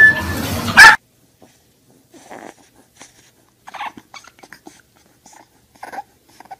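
Pugs barking loudly, with a last sharp bark just under a second in. Then a bulldog puppy makes faint, short whimpering cries at irregular intervals.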